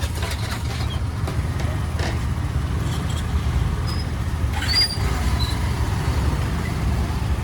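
Ferry boat's engine running steadily with a low, even rumble as the boat gets under way.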